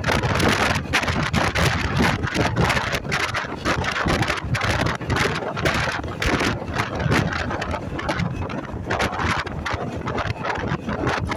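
Wind buffeting hard on the microphone of a moving motorcycle, an irregular rushing roar, with the motorcycle's engine and road noise underneath.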